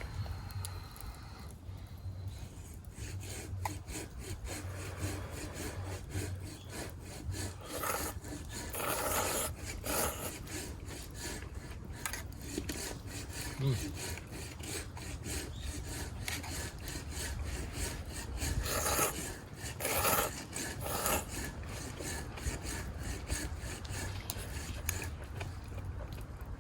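Udon noodles being slurped in a few loud bursts, about a third of the way in and again about three-quarters through, with small clicks and crackles between.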